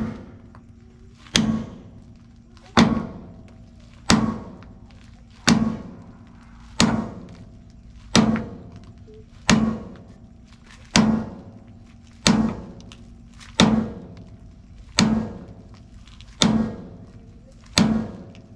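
Heavy hammer blows on steel, about fourteen evenly spaced strikes roughly a second and a half apart, each with a short metallic ring.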